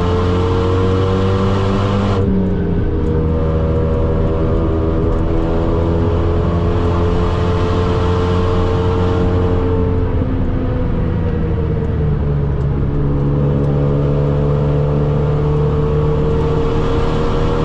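The tuned Renault Megane R.S. 265's turbocharged 2.0-litre four-cylinder engine, heard from inside the cabin while driven hard on track, over steady tyre and road noise. The engine note climbs for the first ten seconds, drops away for about two seconds as the throttle eases, then climbs again from about twelve seconds in.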